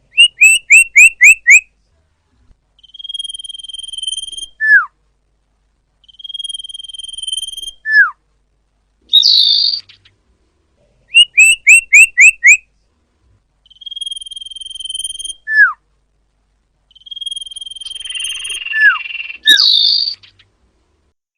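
Common iora (cipoh) song played as a bird lure: a repeating phrase of a long steady whistle that ends in a quick falling note, alternating with runs of five or six rapid sharp notes. Twice a short harsh chatter cuts in.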